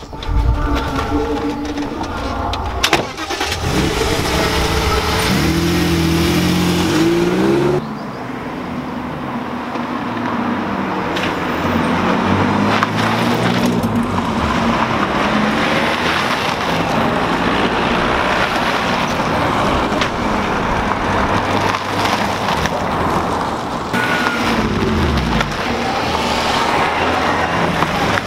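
Car engines running and driving: one revs up in rising steps a few seconds in, followed by steady engine and road noise, with an engine note falling away near the end.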